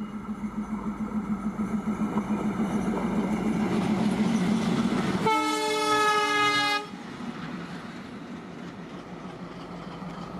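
Electric-hauled express train approaching and passing at speed: wheels running on the rails, building to their loudest about five seconds in, while the locomotive's horn sounds for about a second and a half and cuts off suddenly. The passing continues as a steadier, quieter rumble.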